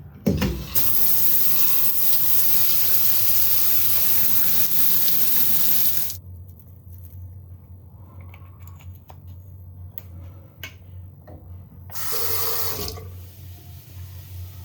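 Water running hard from a tap for about six seconds, then shut off abruptly; a short second rush comes near the end, over a low steady hum.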